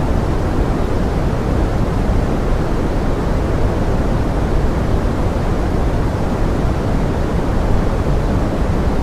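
Steady pink noise blended with forest rain: an even, unbroken hiss that is weighted toward the low end, without distinct drops or other events.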